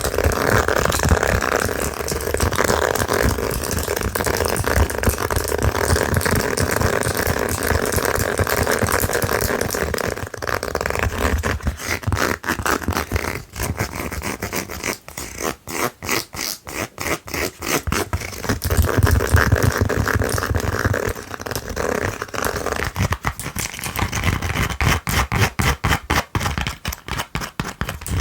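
Long fingernails scratching fast and hard over a slipper, then tapping it rapidly, about five taps a second, with another stretch of scratching in between.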